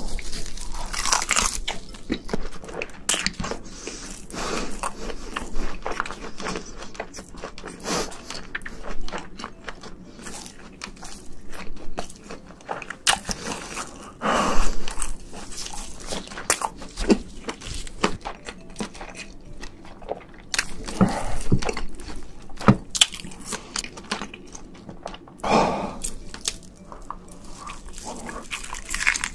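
Close-miked eating of shrimp: crunchy bites and steady wet chewing with irregular crackles, and a few louder crunches along the way.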